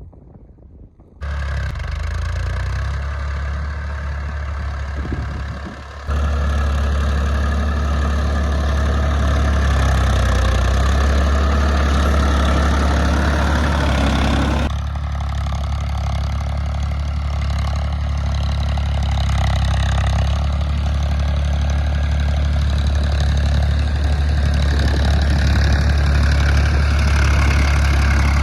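Diesel tractor engine running steadily with a strong low hum. It comes in suddenly about a second in and grows louder at about six seconds.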